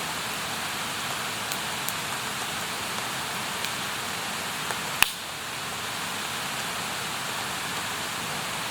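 Campfire burning with a steady hiss and a few scattered crackles, then one sharp, loud pop about five seconds in.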